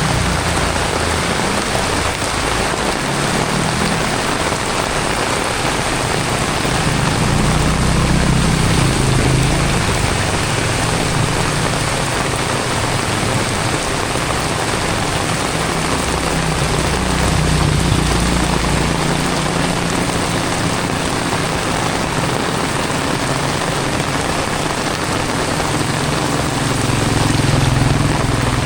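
Heavy tropical rain falling steadily, a dense even hiss, with a low rumble underneath that swells and fades a few times.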